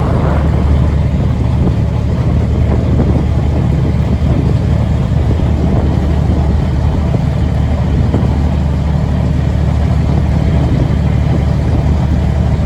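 Narrowboat's inboard diesel engine running steadily under way, a loud, constant low drone.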